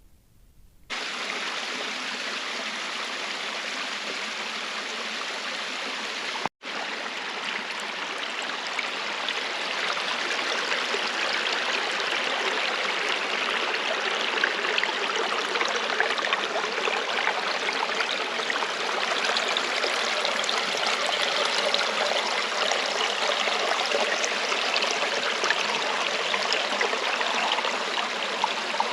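Steady rushing of flowing water. It starts abruptly about a second in, cuts out for an instant a little over six seconds in, then grows slightly louder.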